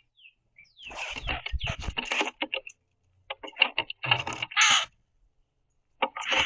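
Northern cardinals give harsh growling calls in three rough bursts during a squabble at the feeder, the angry sound they make when chasing each other off the seed. Low knocks and wing flutters from birds landing on the wooden platform are mixed in.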